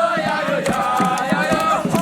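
A group of young voices chanting and singing together, many voices at once, with sharp beats keeping time.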